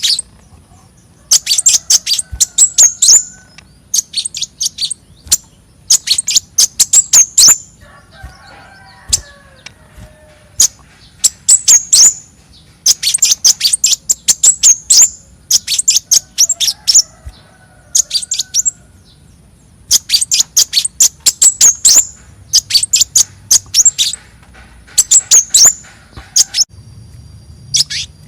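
Konin bird (burung konin) singing: loud phrases of rapid, high, sharp chirps, each a second or two long, repeated with short pauses. A softer, lower twittering fills some of the gaps.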